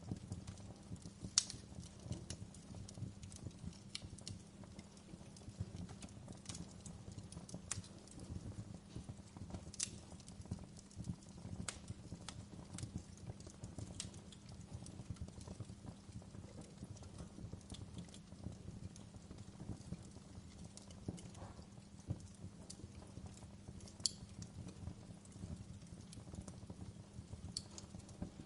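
Fire crackling in a fireplace: irregular sharp pops and snaps over a steady low rumble, with a few louder pops standing out.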